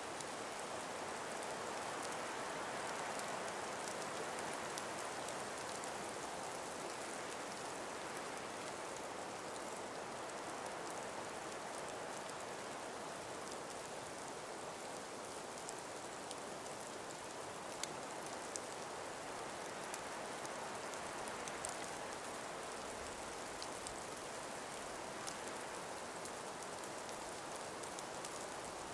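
Calm breeze through an ice- and snow-laden forest: a steady soft hiss that swells and eases gently, with scattered faint ticks.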